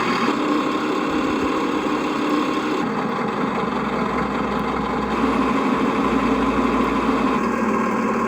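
Simulated truck engine sound from a Servonaut SM7 sound module, played through its small speaker and running steadily at idle with a little throttle. The engine note changes about 3 s in and again near the end.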